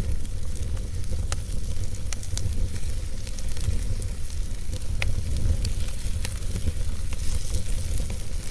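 Fireplace fire crackling, with scattered sharp pops and snaps over a steady hiss and a low rumble.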